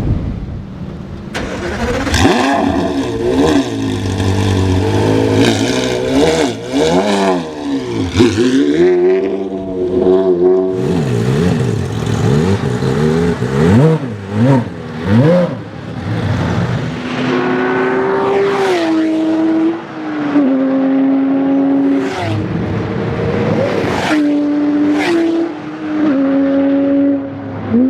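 Porsche Carrera GT's 5.7-litre V10 with a straight-pipe exhaust, loud and revving, its pitch sweeping up and down many times. In the second half the note holds level and steps between pitches, with several sharp cracks.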